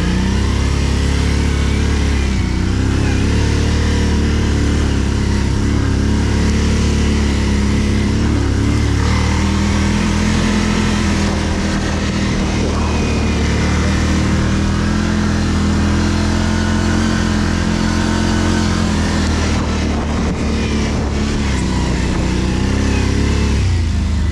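ATV engine revving up and running hard under load, as it pushes up a slope through deep snow. The revs climb at the start, hold high and steady with small rises and dips, and drop away at the end.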